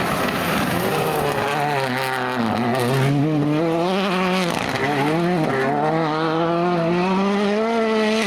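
Rally car engine running hard at high revs, the engine note dropping and climbing again several times as the car lifts off and accelerates.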